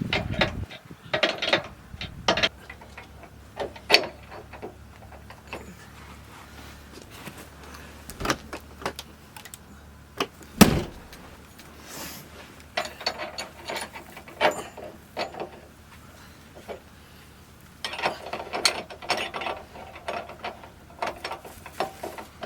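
Irregular metallic clicks and knocks of hand-tool work on camper hardware, with bouts of ratchet-like clicking and one louder knock about halfway through, over a faint low hum.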